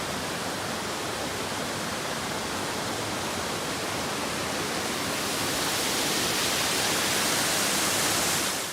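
Rushing water of a mountain brook running high with spring runoff, a steady hiss that grows louder over the last few seconds, then cuts off suddenly.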